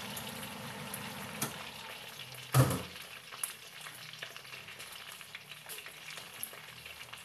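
Whole chicken sizzling and crackling in hot oil in an uncovered pot. About two and a half seconds in, a single loud clunk as the glass pot lid is set down.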